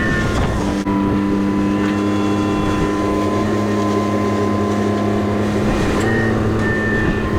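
Mini excavator's diesel engine running at a steady speed, with a high whine above the engine note.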